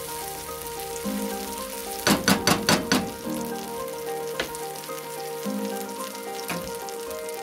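Mashed sweet potato and potato sizzling as it fries in oil in a nonstick pan. About two seconds in there is a quick run of about five sharp knocks, like a spatula tapped against the pan, and a couple of single clicks follow. Soft background music plays underneath.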